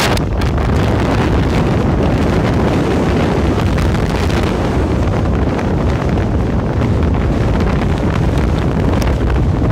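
Squally wind buffeting the microphone: a loud, constant low rumble.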